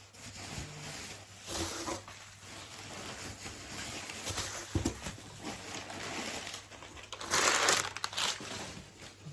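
Packing paper crinkling and rustling as it is handled, with a louder burst of crinkling about three-quarters of the way through.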